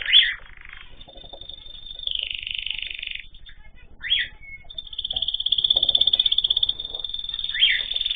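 Small cage birds calling together: spells of buzzy, rapidly pulsed chatter, broken by three short, sharp chirps that rise in pitch, near the start, about four seconds in and near the end.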